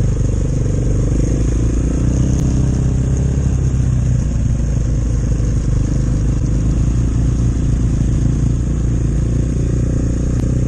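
Chinese enduro motorcycle engine running steadily while riding.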